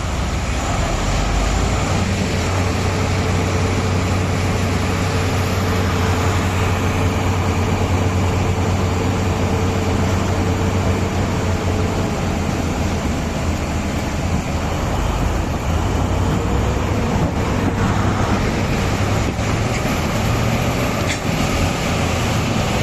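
Heavy mining machinery's large diesel engines running steadily, with a constant low hum and a dense mechanical din.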